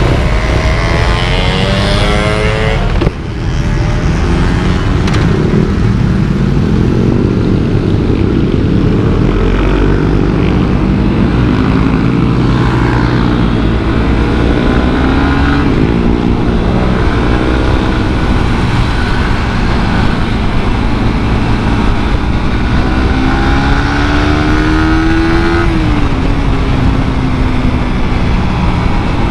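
Suzuki GSX-R150's single-cylinder four-stroke engine, through its stock exhaust, under way: the engine note climbs and falls as it accelerates through the gears, with a brief dip about three seconds in and a long climb that drops away near the end.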